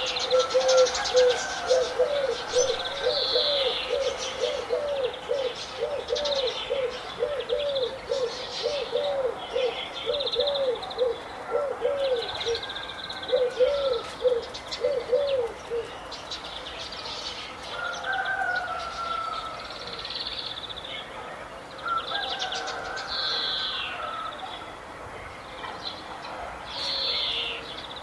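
Several birds chirping and trilling in high, varied phrases, with a low call repeated about twice a second for the first half that then stops.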